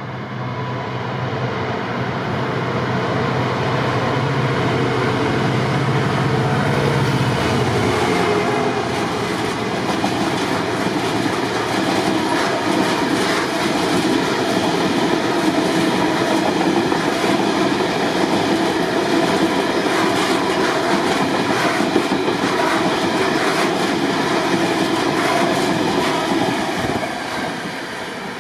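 A train passing through the station. The locomotive's steady low hum comes first, then a long run of wagons rumbling with a rhythmic clatter over the rail joints. The sound swells in over the first few seconds and fades near the end.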